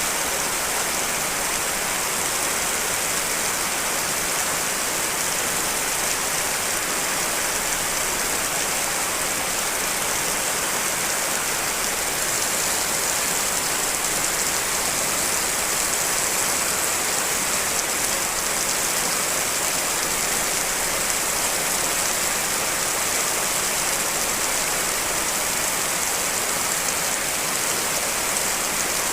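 Steady rain falling, a dense even hiss of many drops, with rain pattering on glass.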